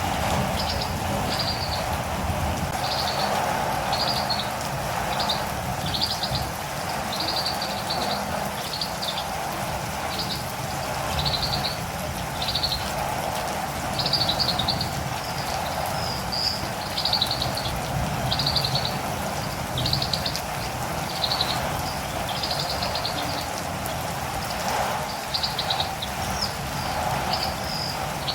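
Catirumbava (olive-green tanager) calling: a long run of short, high chirps, about one a second, over a steady hiss of rain.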